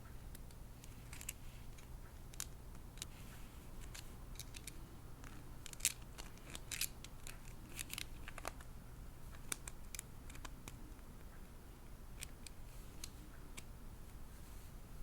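Small, sharp clicks and taps at an irregular pace, thickest from about five to ten seconds in, as a doll, its plastic parts and packaging are handled, over a faint steady low hum.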